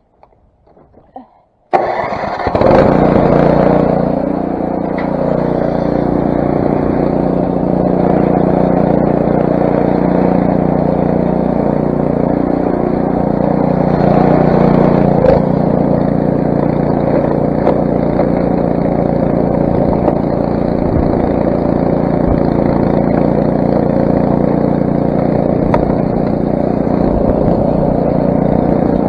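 Craftsman snowblower's 6 hp Briggs & Stratton engine started on its electric start: it catches suddenly about two seconds in, then runs steadily.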